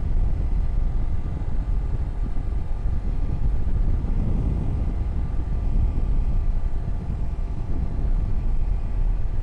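Motorcycle running at a steady cruise while riding, engine and low wind rumble holding an even level with no change in speed.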